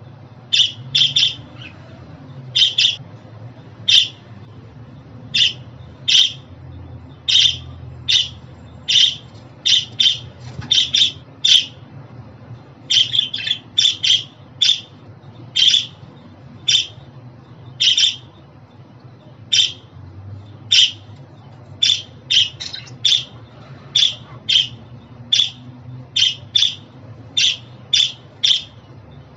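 Budgerigar chirping: short, sharp calls repeated about once or twice a second, now and then in quick clusters of two or three.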